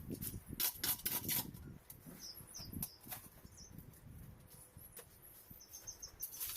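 A few sharp scrapes and knocks in the first second and a half, then a small bird chirping briefly twice, the second time as a quick run of notes near the end.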